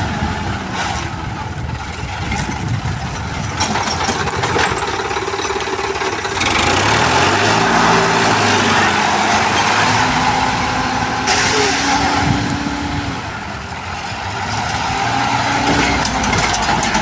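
Tractor diesel engine running and revving, its pitch rising and falling, getting louder and harsher from about six seconds in.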